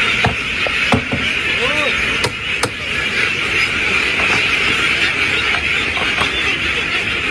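Massed chorus of a large duck flock quacking continuously, with a few louder individual calls and several sharp clicks or knocks in the first three seconds.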